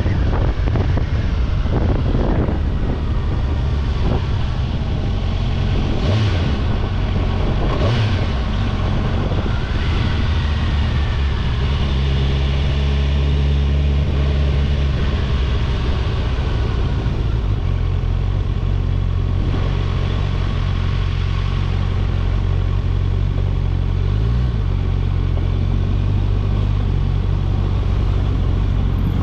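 Motorcycle on the road: a steady engine drone under a rush of wind and road noise, with the engine pitch briefly rising and falling a few times.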